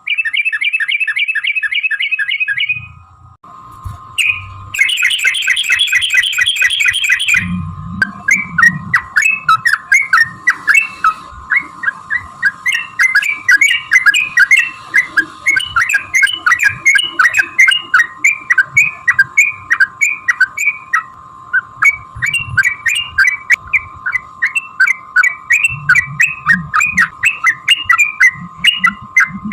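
Yellow-vented bulbul (trucukan) singing: two fast trills in the first seconds, then a long unbroken run of short quick notes, with a steady faint tone underneath.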